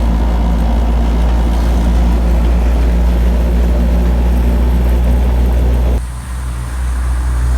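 Honda Civic engine heard through an HKS Hi-Power exhaust, running at a steady RPM with a steady exhaust drone. About six seconds in the sound changes abruptly, dipping and then settling back to a similar steady note.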